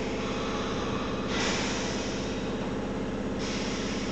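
Old brown electric railcar running slowly by the platform: a steady mechanical hum with a pulsing low rumble, and a hiss of air for about two seconds in the middle.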